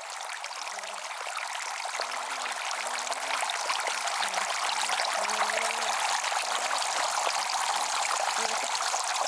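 Steady rush of running water, growing gradually louder.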